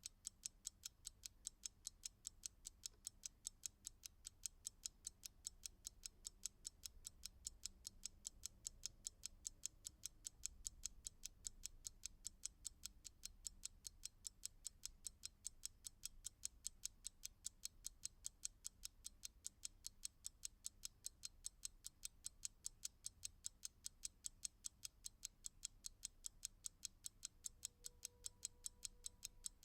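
Clock ticking steadily, with evenly spaced ticks several times a second.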